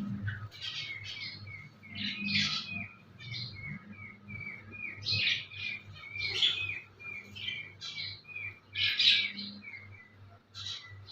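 Small birds chirping: a quick series of short repeated chirps, about two or three a second, with louder, harsher calls mixed in every second or two.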